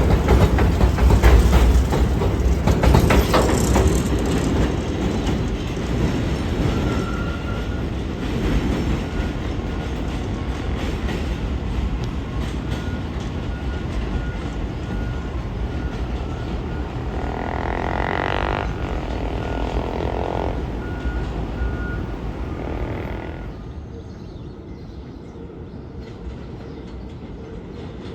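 R211 subway train running on the track: low rumble and clatter of wheels on rails, loudest in the first few seconds and then easing off, with a faint steady whine through the middle. The noise drops markedly about 23 seconds in.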